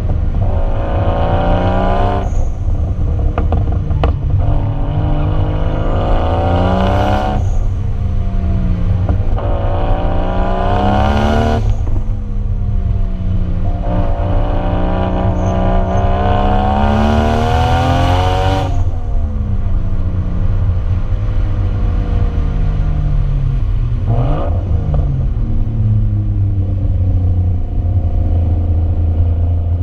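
Lexus IS300's 1JZ straight-six through a Vibrant aftermarket exhaust, revved hard four times: each time the pitch climbs, then drops sharply, with a brief blip later before it settles to a low, steady rumble.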